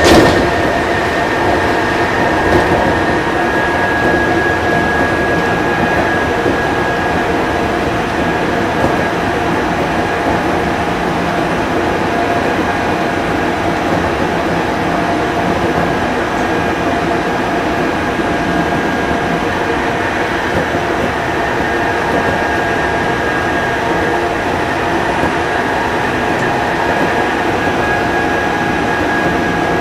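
Odakyu 5000 series electric train (set 5056F) running: a steady, loud rumble of wheels and running gear with a high whine held at one pitch. A sharp knock comes at the very start.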